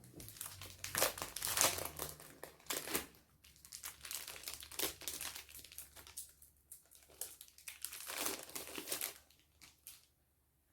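Crinkling and rustling of craft materials being handled, in irregular bursts that die away near the end.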